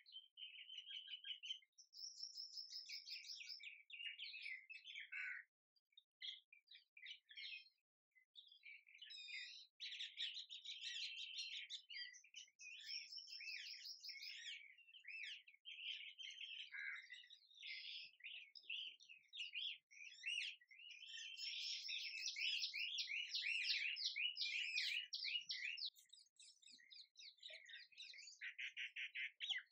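Songbirds chirping and singing in fast trills and twittering phrases, nearly without pause, over a completely clean background with no water or wind noise.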